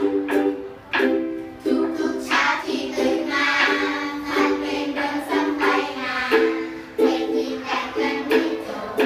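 Ukulele strumming a steady chord pattern, about one or two strums a second.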